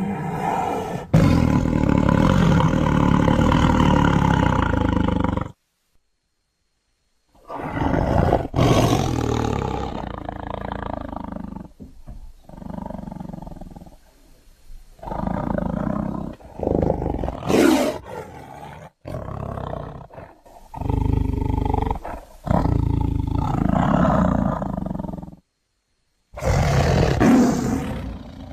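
Tiger roaring and growling in a series of rough calls of a few seconds each, split by abrupt cuts to dead silence, as in a tiger sound-effects compilation.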